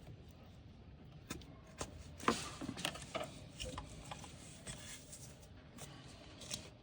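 Scattered light clicks and knocks, the sharpest about two and a half seconds in: hands and tools working at hoses, connectors and clips in an engine bay.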